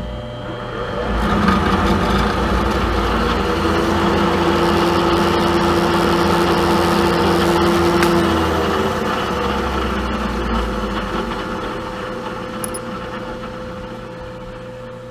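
Milling machine motor and spindle starting up and running steadily with a hum. About nine seconds in it begins winding down, fading away over the next few seconds.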